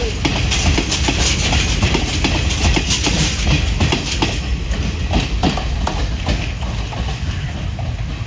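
Passenger train running past, its wheels clattering over the rail joints over a deep rumble; the hissing part of the noise eases off about halfway through.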